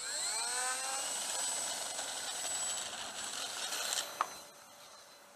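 Electric motor and four-blade propeller of a radio-controlled P-39 model plane spooling up with a rising whine for the takeoff, then running steadily at full throttle. The sound cuts off suddenly about four and a half seconds in.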